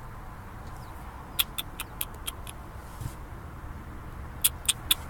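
Two quick runs of sharp, high clicks, about six a little over a second in and four near the end, over a low steady rumble.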